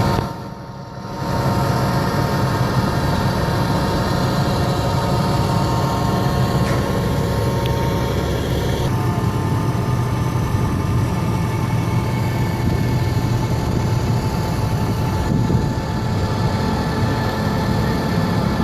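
Concrete pump truck's engine running steadily at worksite load, a low drone with a whine of steady tones above it. It dips briefly about a second in, then carries on.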